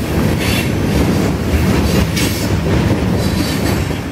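Freight train cars rolling past at close range: a steady heavy rumble of steel wheels on rail, with wheel clatter and hiss coming back about once a second as the cars go by.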